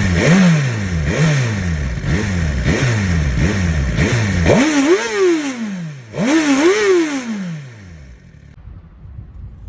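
Suzuki GSX-R1000R inline-four sport-bike engine being blipped: about six quick throttle blips, each rising and falling in pitch, then two longer, higher revs, after which the engine sound falls away near the end. The revving is part of an rpm setting input after a battery replacement.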